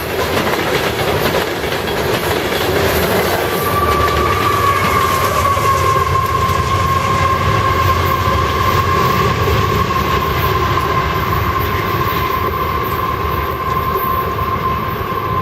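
Union Pacific grain train's freight cars rolling past with a steady rumble and wheels clacking over the rail joints. About three and a half seconds in, a steady high-pitched squeal sets in and holds.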